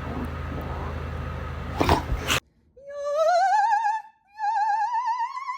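Room noise with a low hum that cuts off abruptly about two and a half seconds in. Then two long, high notes sung with a wide, even vibrato, each sliding slowly upward, like an operatic voice.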